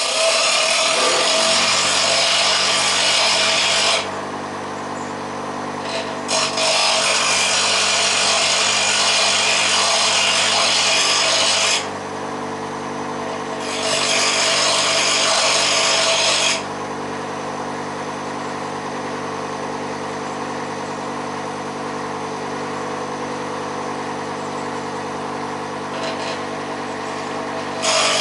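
Grinder motor switched on and running steadily while a turning tool is pressed to the wheel in four separate stretches of harsh grinding, sharpening the cutting edge. The grinding comes at the start, again from about six to twelve seconds, briefly around fourteen to sixteen seconds, and once more at the very end, with only the motor running in between.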